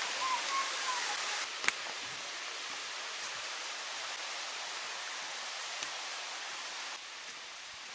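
Rushing water of a mountain stream, a steady hiss, with a single sharp click about a second and a half in. It drops a little in level near the end.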